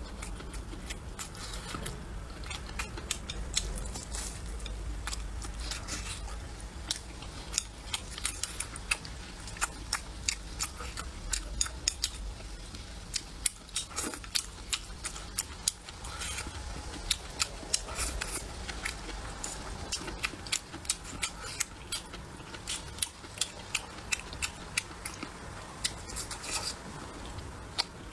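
Close-miked chewing of a mouthful of food: many sharp mouth clicks, several a second, going on without a break.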